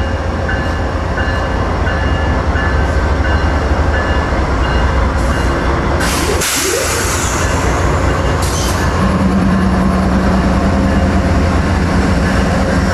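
Amtrak Crescent's diesel locomotives pulling out of the station under throttle, a loud, steady heavy engine rumble. A brief hiss comes about six seconds in, and a deeper steady hum joins about nine seconds in.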